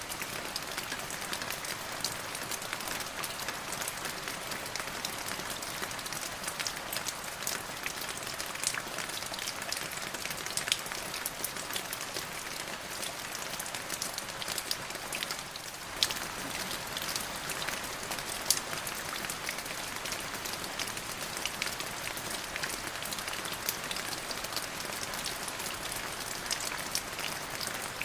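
Steady rain falling, with many sharp individual drops ticking through the hiss and a brief lull about halfway.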